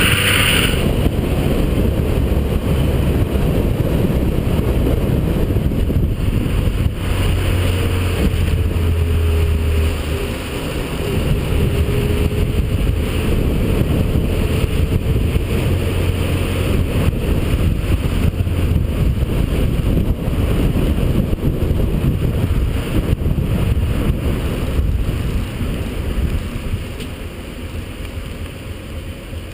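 Holden VP Commodore's 3.8-litre V6 engine running hard with heavy wind and road noise, heard from on board the car. The engine note dips and rises in the middle, and the noise eases off near the end.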